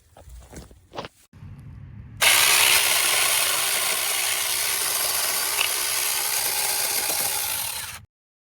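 Battery-powered 6-inch mini chainsaw starting suddenly about two seconds in, running steadily for about six seconds, then cutting off abruptly. A few light knocks come before it starts.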